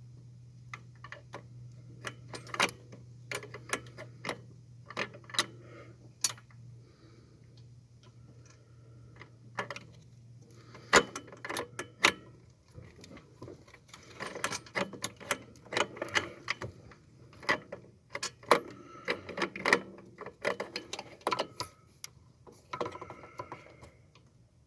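Irregular metallic clicks and ticks, in clusters with short pauses, from hand tools and parts being worked on a turbo wastegate actuator and its retaining clip. A faint low hum fades out about a third of the way through.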